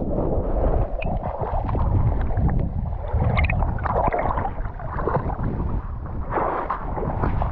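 Fast-flowing river water splashing, with wind buffeting the microphone.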